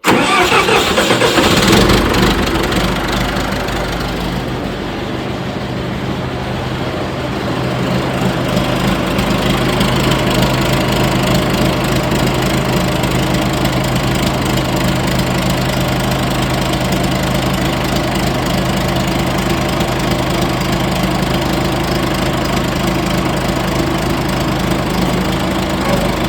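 John Deere 450C bulldozer's diesel engine firing up and running. It catches right at the start and is loudest for the first couple of seconds. It eases off, then picks up again about eight seconds in and runs steadily.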